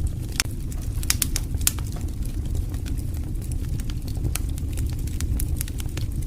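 Wood fire in a fireplace crackling: irregular sharp pops and snaps, busiest about a second in, over a steady low rumble of the burning fire.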